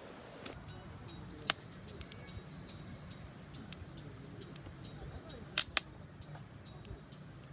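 A few short, sharp clicks or knocks over a faint low hum. The loudest is a quick double about five and a half seconds in, and there are single ones near one and a half and two seconds.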